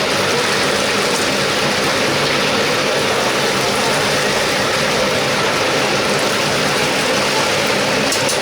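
Chicken deep-frying in hot oil: a steady, dense sizzle and bubbling.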